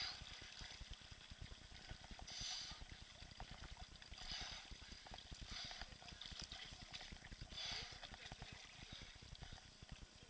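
Water splashing and sloshing in short bursts every second or two, over a low rumble of wind and handling on the microphone.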